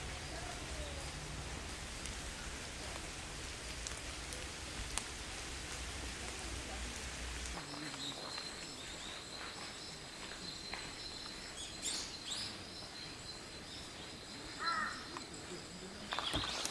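Forest ambience with a steady background hiss and a few short bird calls. A low rumble underneath stops about halfway through, a thin steady high tone sets in, and louder irregular rustling begins near the end.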